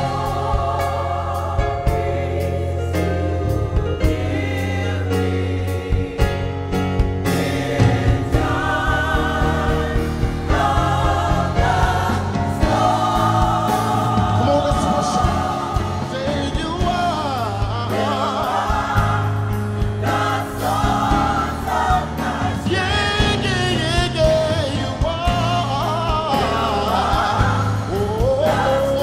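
Gospel choir singing with instrumental accompaniment, voices in sustained harmony over a steady bass and beat.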